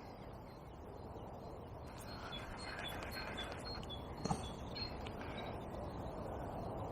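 A few crow caws, some close together in the middle and another near the end, over a steady outdoor hiss, with one short knock about four seconds in.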